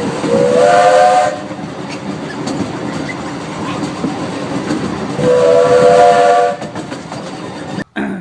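A multi-tone horn sounding twice, about a second and then about a second and a half long, over a steady rumbling clatter. The clatter cuts off suddenly near the end.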